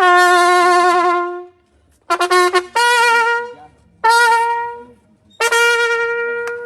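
A trumpet playing a phrase. It opens with a long held note with slight vibrato and a quick run of short notes, then moves to higher notes, the last one held long.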